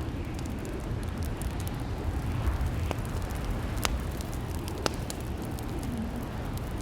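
Fireplace fire crackling over a steady low rumble, with scattered small crackles and a few sharper pops about a second apart near the middle.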